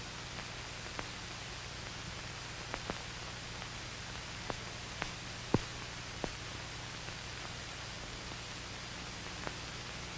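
Steady hiss and low hum of an old film soundtrack with no other sound, broken by scattered faint clicks and pops, one a little louder about five and a half seconds in.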